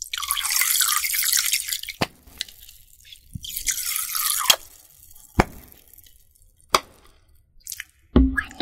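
Running water made as an ASMR trigger: a stretch of about two seconds at the start and a shorter one of about a second near the middle. Single sharp drip-like clicks fall between and after them.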